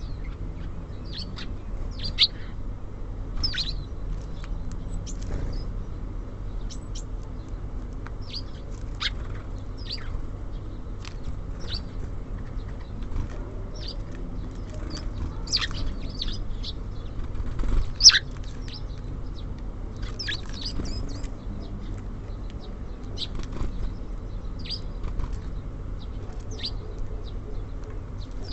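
Small songbirds at a feeder: short high chirps and calls scattered throughout, one sharper and louder about two thirds of the way through, with wing flutters as birds come and go. Underneath runs a steady low hum.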